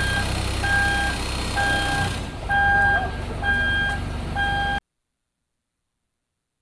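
Vehicle reversing alarm beeping about once a second over a running engine's low rumble, cutting off suddenly about two-thirds of the way through.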